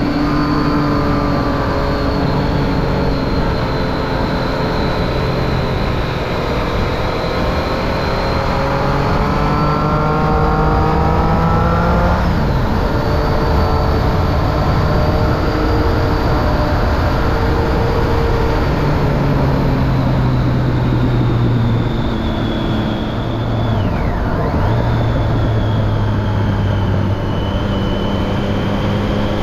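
Triumph Street Triple 675's three-cylinder engine running through a Remus Hypercone exhaust with the dB killer fitted. The note holds steady for stretches, climbs in pitch under acceleration, then drops suddenly about halfway through and shifts again near the end.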